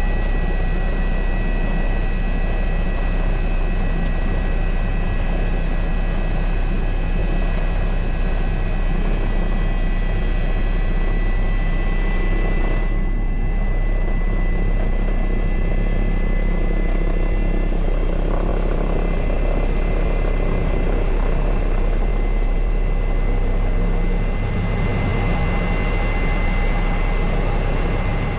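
Helicopter running: a loud, steady drone of engine and rotor with a constant high-pitched whine over it.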